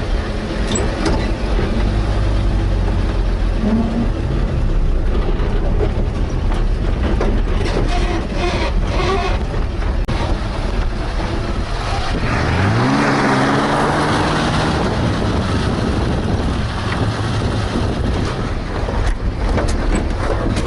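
Chevrolet C10 pickup's engine running while driving on a dirt track, revving up with a rising pitch about twelve seconds in. Short knocks and rattles come from the truck over the bumps, more of them near the end.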